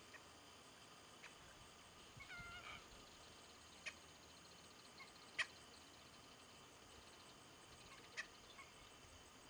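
Near silence with faint bird calls: a short wavering call about two seconds in, then a few sharp clicks spaced out over the following seconds.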